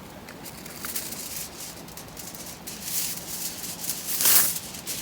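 Irregular rustling and crackling noises with scattered small clicks, growing busier and loudest about four seconds in.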